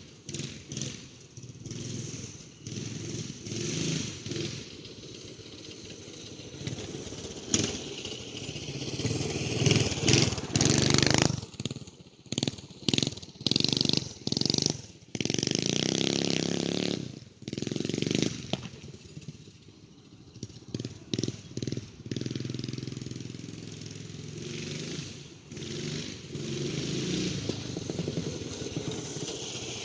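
A Motovox minibike's 212cc single-cylinder engine running while ridden around, growing louder and fainter as it comes and goes. In the middle it revs in short choppy bursts as the throttle is opened and closed.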